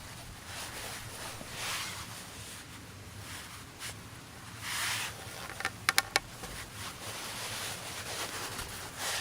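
Rustling and handling noises, with a quick run of four or five sharp clicks or knocks about six seconds in.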